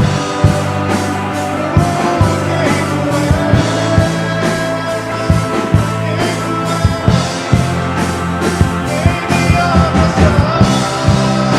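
Live worship band music in a rock style: a drum kit keeps a steady beat over sustained bass and guitar, with a voice singing over the band.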